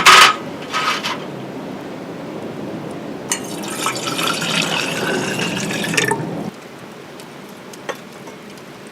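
A drink being poured into a cup, with the pitch rising as it fills for about three seconds. Two short hissing bursts come before it, at the start and about a second in.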